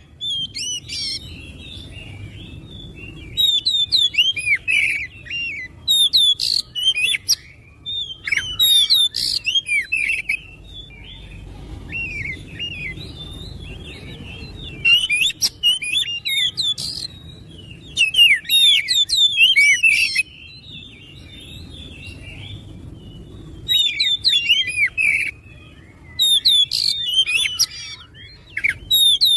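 Oriental magpie-robin (kacer) singing: loud, fast phrases of varied chirps and whistles, each a second or two long, repeated every few seconds with softer twittering in between.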